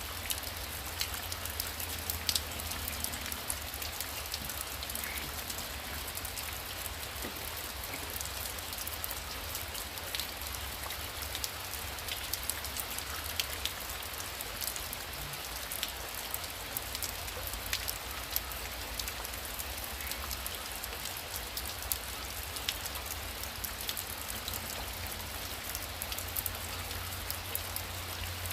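Heavy rain falling steadily, a continuous hiss dotted with many sharp individual drop ticks, over a steady low rumble.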